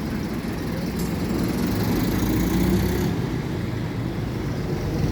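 A vehicle engine running steadily, with a high hiss over it from about one to three seconds in.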